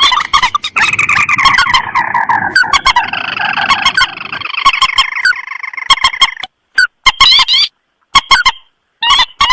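Lure recording of rice-field rails, mandar and tikusan, calling: loud, harsh, honking calls overlapping at first, with a long series falling in pitch over the first few seconds. After that come short separate calls, broken by sudden total silences where the recording is cut.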